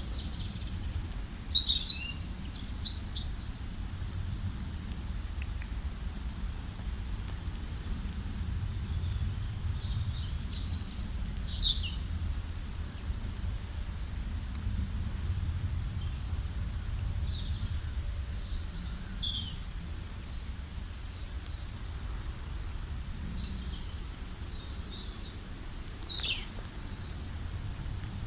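Several wild birds chirping and calling in short bursts of quick high notes, some sliding downward, over a steady low rumble.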